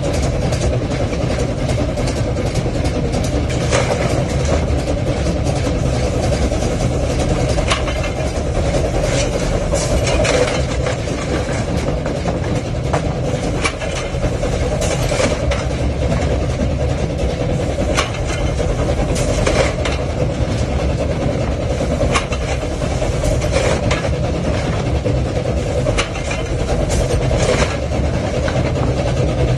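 Train running with a steady low rumble and irregular sharp clanks every second or two.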